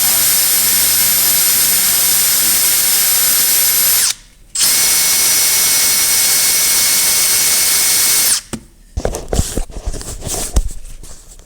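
Electric drill spinning an exhaust valve against its seat to lap it with grinding compound: a steady whine that stops for half a second about four seconds in, runs again, and stops about eight seconds in. A few light knocks and clatter follow.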